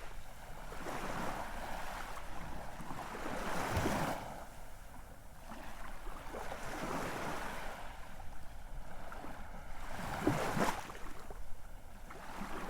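Ocean surf: waves breaking and washing up the shore, swelling and falling back in slow surges. The strongest surge comes about ten seconds in.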